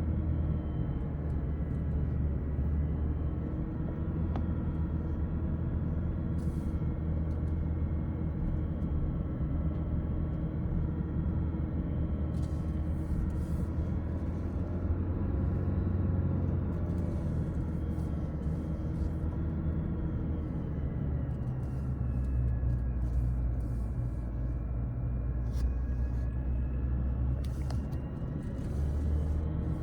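Steady low rumble of a car descending a mountain road, engine and tyre noise heard from inside the cabin, with a faint engine hum whose pitch drifts slowly up and down.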